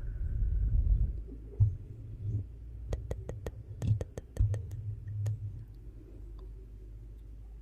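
Wood fire in a fireplace crackling, with a quick run of sharp pops in the middle over a low, uneven rumble.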